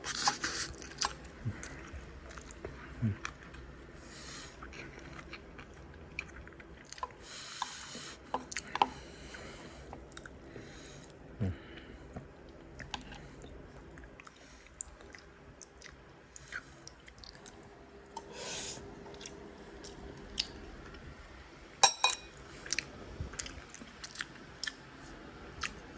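A person chewing and biting food close to the microphone, with scattered small crunches and clicks and one sharper knock about 22 seconds in.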